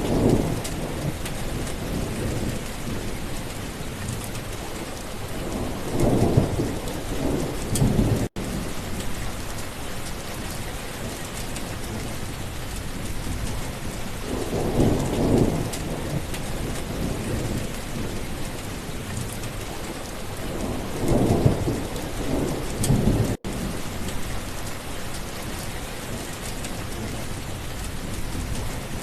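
Steady heavy rain with rolling thunder that swells up in low rumbles about every seven seconds, four times. The sound cuts out for an instant twice.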